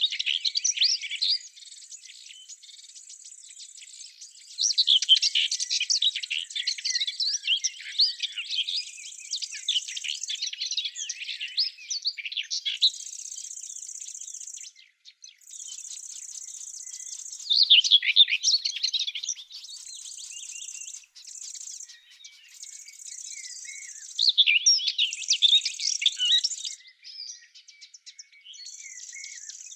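Songbirds singing in bursts of rapid, varied chirping phrases every few seconds, with a high, steady buzzing trill that starts and stops in short stretches between them.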